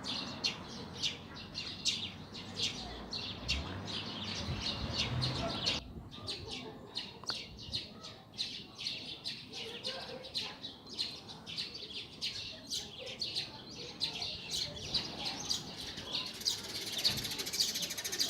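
A chorus of small songbirds chirping and twittering rapidly and continuously, with many short, high calls overlapping. A low background rush underneath stops abruptly about six seconds in.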